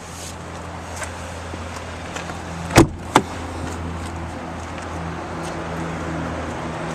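Chevrolet Silverado 1500 pickup engine idling steadily, with two sharp knocks close together about three seconds in.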